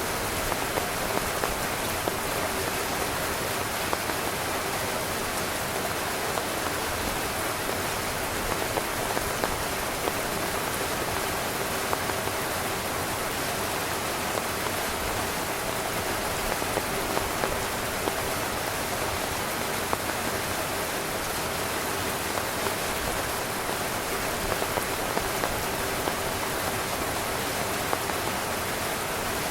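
Heavy rain falling steadily on a tent: an even hiss with frequent small louder drop taps.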